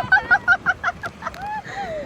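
A rider laughing in a quick run of short, high-pitched bursts, about seven in the first second, followed by a couple of short falling vocal sounds.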